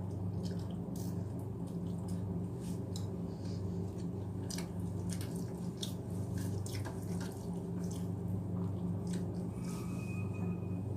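Close-up eating sounds: wet mouth clicks and chewing of rice and mashed potato, coming irregularly. A steady low hum runs underneath.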